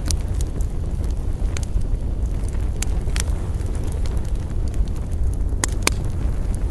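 Wood campfire burning with a steady low rumble of flames and scattered sharp crackles and pops of burning wood, two close together near the end.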